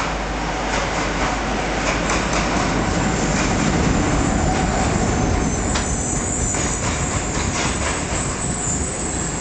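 Arriving passenger train, its electric locomotive and then the coaches rolling slowly past: a steady rumble with wheels clicking over rail joints, and a thin high wheel squeal from about halfway through as it brakes.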